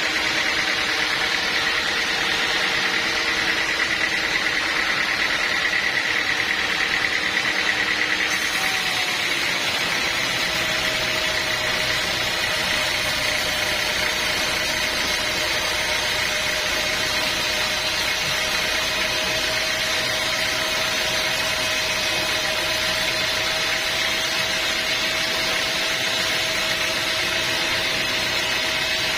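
Sawmill machinery running steadily, an engine-driven drone with a whine; its tone changes about nine seconds in.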